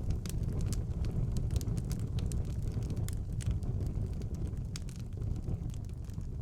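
Fire burning in a fireplace: a steady low rumble of the flames with frequent sharp crackles and pops scattered throughout.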